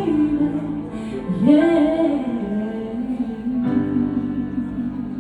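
A singer's wordless vocal run gliding up and down over guitar accompaniment, settling about three and a half seconds in onto a held note and chord.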